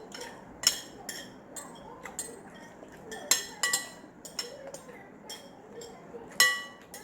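Metal cutlery clinking and scraping against a plate while eating noodles, in a string of sharp, ringing clinks at uneven intervals, the loudest about halfway through and near the end.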